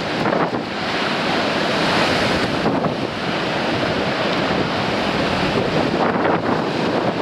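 Sea surf breaking and washing on coastal rocks, under strong wind buffeting the microphone; a dense, continuous rush with small surges.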